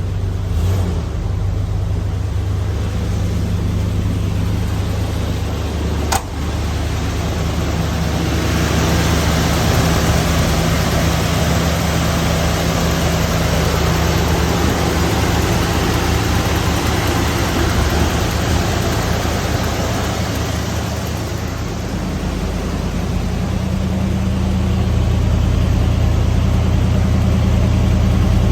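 Ford 460 big-block V8 running at idle shortly after a cold start, a steady low engine note. A single sharp click comes about six seconds in, and the engine note gets a little louder and shifts higher near the end.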